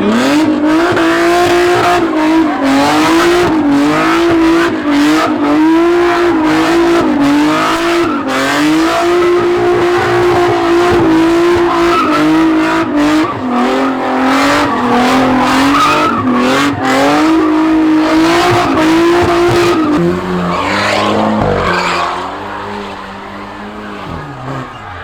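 A car spinning its tyres at high revs, the tyres squealing over a wavering engine note for about twenty seconds. Near the end the pitch drops and the sound eases off.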